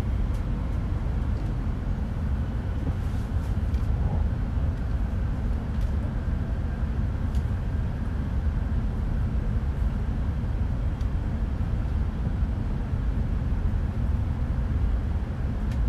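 Steady low rumble of an E5 series Shinkansen running along the line, heard from inside the passenger cabin.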